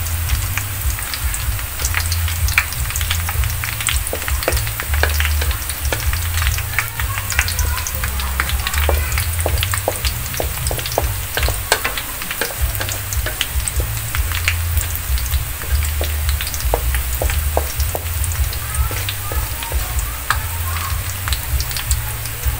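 Sliced shallots frying in hot oil in a steel wok, still pale and early in their frying: a steady sizzle full of small crackles and pops, with the occasional scrape of a wooden spatula stirring them. A low rumble runs underneath.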